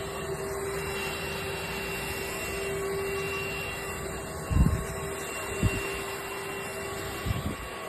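Trucozie cordless stick vacuum running steadily with a constant motor whine, with a few dull low thumps midway and near the end.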